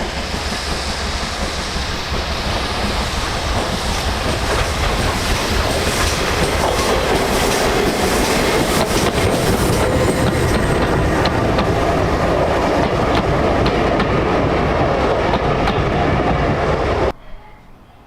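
Steam-hauled heritage train running on jointed track, its wheels clicking over the rail joints. It gets louder over the first several seconds, holds steady, then cuts off sharply near the end.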